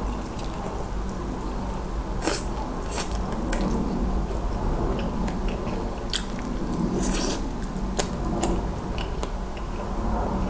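Close-miked biting and chewing of soy-garlic fried chicken: wet chewing throughout, broken by irregular sharp crunches of the fried coating.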